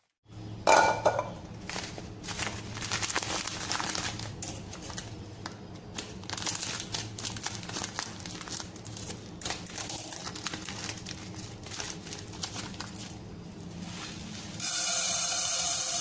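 Plastic bag of corn rice crinkling and rustling as it is handled and opened, with a sharp rustle near the start. A louder steady rushing sound starts near the end.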